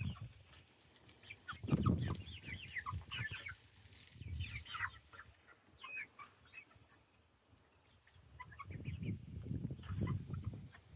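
Backyard chickens clucking: short calls come and go throughout, with a few low rumbles about two seconds in and again near the end.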